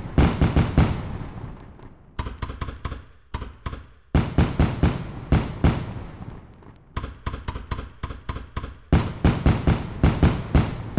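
Fireworks going off in repeated volleys of rapid bangs and crackling pops, each volley lasting a second or two, with brief lulls between them.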